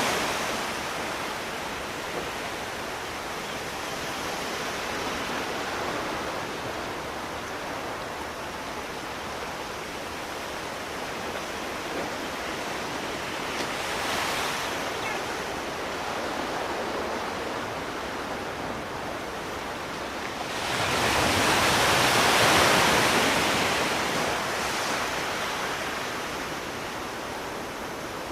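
Sea waves breaking and washing on the shore, a steady rush of surf that swells into a louder wave about three-quarters of the way through and then ebbs.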